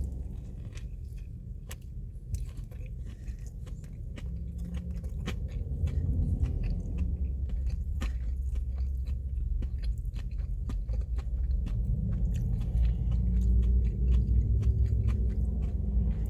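A person biting into and chewing a fried-chicken slider with coleslaw and pickle, close to the microphone. Many small crunchy clicks sit over a low rumble, and the chewing grows a little louder in the second half.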